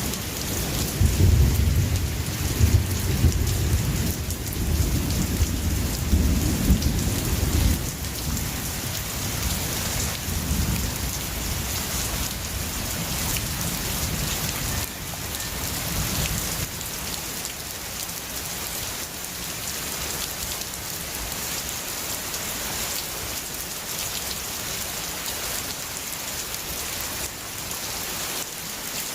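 Steady heavy rain hissing and pattering, with a long roll of thunder rumbling low through the first half that fades away about halfway through, leaving the rain alone.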